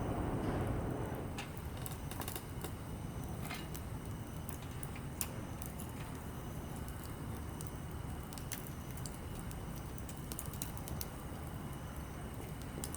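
Small wood campfire crackling, with irregular sharp pops and ticks over a steady low hiss. A louder low rumble fades away over the first second or so.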